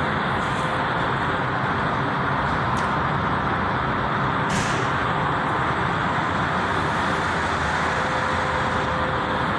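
Steady vehicle noise from motor traffic or running cars, with a short hiss about four and a half seconds in.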